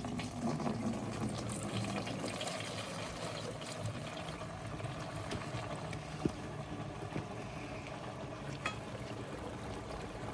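Dirty, thick old diesel being poured slowly through a filter into a container: a steady trickling pour, with a couple of small clicks along the way.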